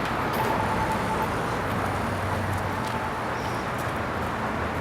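Steady outdoor background noise with a low traffic hum.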